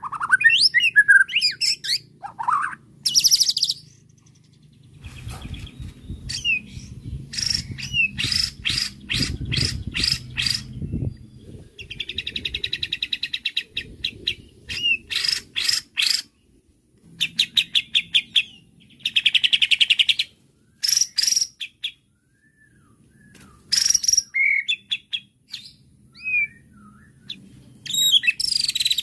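White-rumped shama (murai batu) singing a long, varied song: runs of sharp repeated notes, buzzy trills and whistled glides, broken by short pauses. A low rumble sits under the song for several seconds near the start.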